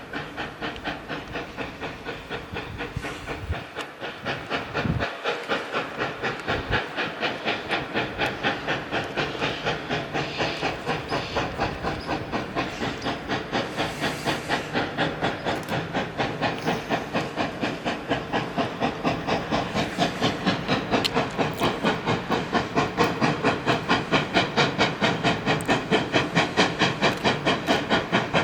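A 2-8-0 Consolidation steam locomotive working a train, its exhaust chuffing in a quick, even rhythm that grows gradually louder as it comes closer.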